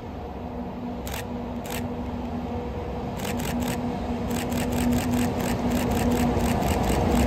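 A train hauled by an electric locomotive approaching: a steady hum that grows steadily louder, with a run of quick, sharp high ticks from about three seconds in.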